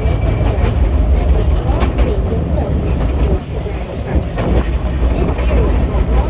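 Small theme-park tourist train running on its narrow track, with a steady rumble of wheels on rails. Thin, high squeals from the wheels on the rails come and go several times.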